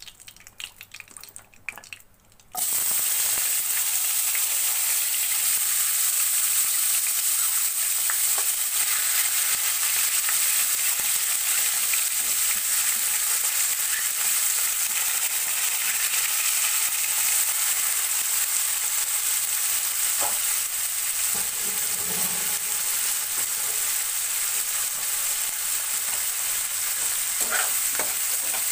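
Chopped onions and tomatoes hitting hot oil in a non-stick kadai, the sizzle starting suddenly about two and a half seconds in. The steady frying sizzle then carries on as the vegetables are stirred with a spatula, with a few light scrapes.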